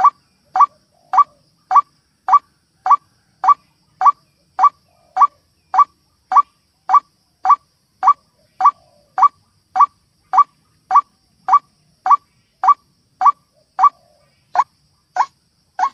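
White-breasted waterhen (ruak-ruak) call played as a trapping lure recording. It is a short rising note repeated steadily, a little under two a second.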